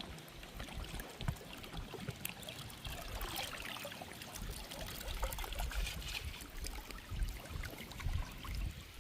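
Shallow river water trickling and splashing around a bamboo raft as it moves downstream, with scattered small splashes and clicks.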